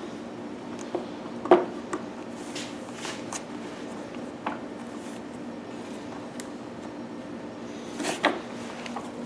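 Plastic cover of a Honda EU1000i generator case being handled and slid back into place: scattered light clicks and knocks, the loudest about a second and a half in and a couple more near the end, over a steady low hum.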